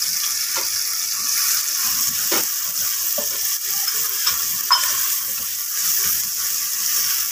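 Chopped onions and ginger-garlic paste sizzling in hot oil in a frying pan as they are sautéed, stirred with a wooden spatula that knocks against the pan a few times, most clearly about two and a half and nearly five seconds in.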